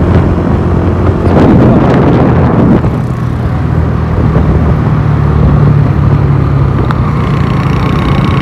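Motorcycle engine running under way through city traffic, with road and wind noise on the microphone; a louder stretch of passing traffic comes about one and a half seconds in.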